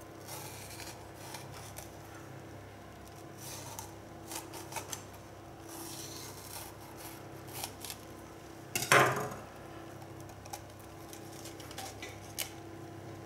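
Knife cutting around the stem of a raw red bell pepper and working the core loose: scattered crisp cutting, scraping and rubbing sounds with small clicks, and one louder snap about nine seconds in.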